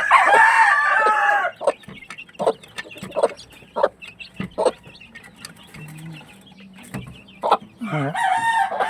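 Rooster crowing, a long call at the start and another starting near the end, with hens clucking in short calls in between.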